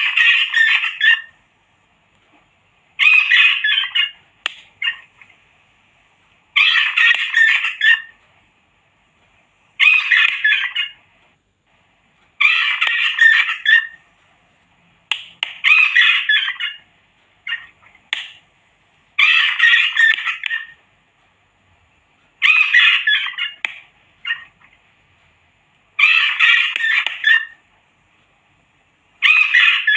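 Recorded rat distress squeals, looped as a repellent sound: shrill, rough squealing bursts about a second and a half long, repeating roughly every three seconds. A faint steady high-pitched tone runs underneath.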